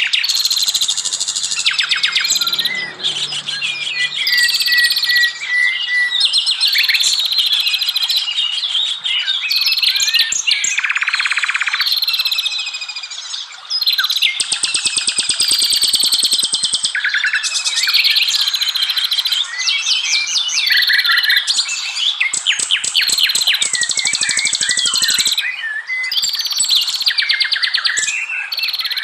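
Dense, continuous chorus of many forest songbirds singing over one another: whistled phrases, rapid trills and fast chattering note runs.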